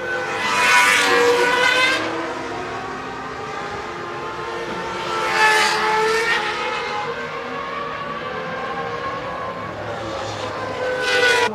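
Formula One cars' high-revving V10 engines screaming on track. The sound swells three times, about a second in, midway and near the end, as cars pass close, with the pitch gliding as they go by.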